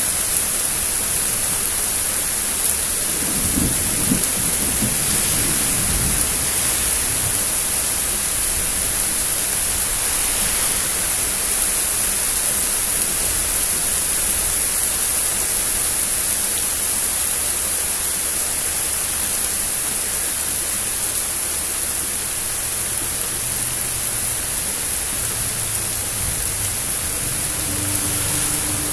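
Steady rain hiss from a thunderstorm, with a low rumble of thunder a few seconds in and another beginning near the end.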